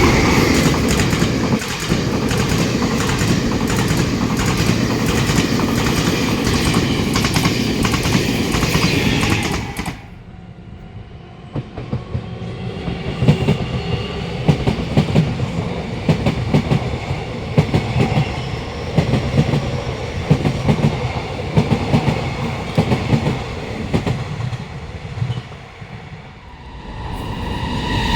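Train passing close by, a loud steady rush of wheels on rail that cuts off abruptly about ten seconds in. Then a passing train's wheels clatter over the rail joints in an uneven run of sharp clicks, with a faint whine above them.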